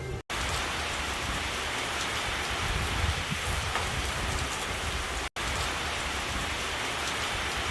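Rain falling steadily, an even hiss of drops on surfaces that cuts out for an instant twice.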